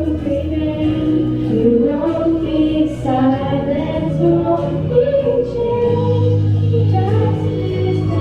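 A choir of young voices singing held notes over a steady low accompaniment.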